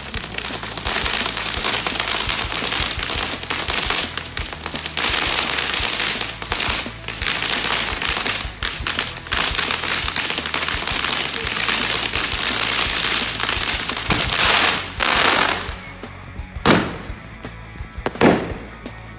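Consumer fireworks firing: a long stretch of rapid, dense crackling and banging, like a multi-shot cake, then a couple of louder rushing bursts and three separate sharp bangs near the end.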